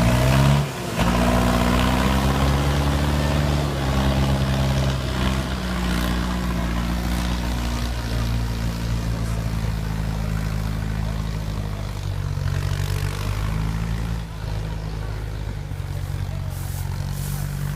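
Yanmar 1185 tractor's four-cylinder turbo diesel engine running under heavy load, pulling a loaded 100-sack grain cart. The engine note dips about a second in, then settles and shifts in pitch a few times.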